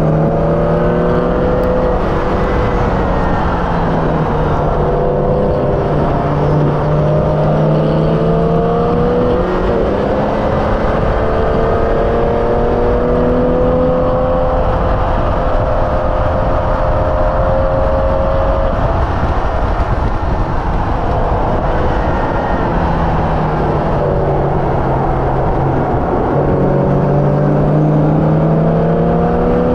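Hyundai Elantra N's turbocharged four-cylinder engine at full throttle on a race track, revs climbing in long pulls and dropping back at the shifts, easing off about two-thirds through before pulling hard again near the end. Steady road and wind noise runs underneath.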